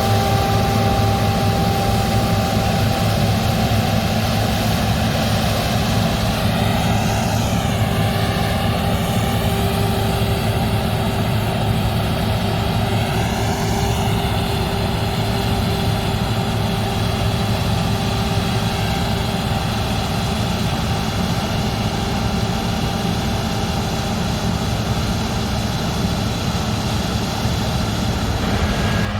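Combine harvester running steadily in the field, with its engine and threshing machinery making a continuous drone. Between about 7 and 14 seconds in, the tone sweeps and swirls as the machine moves past.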